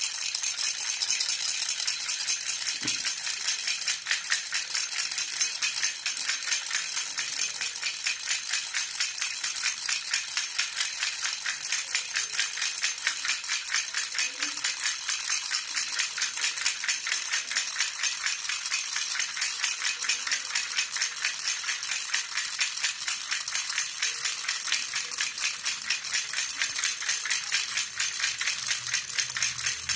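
A baby rattle (jhunjhuna) shaken steadily, a fast, continuous rattling of many small strikes that keeps an even level throughout.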